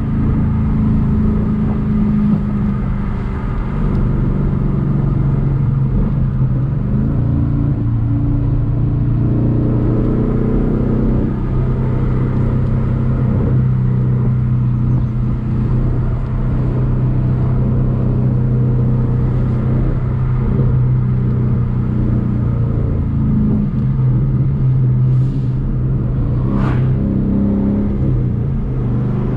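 Ford Mustang GT's 5.0 V8 engine running steadily while the car is driven, its pitch shifting a few times as the revs change. A brief rising squeak comes near the end.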